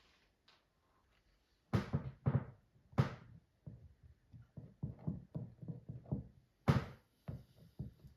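Handling knocks and taps while small pieces are glued onto an inflatable rubber boat: a few sharp knocks, then a run of quicker, softer taps.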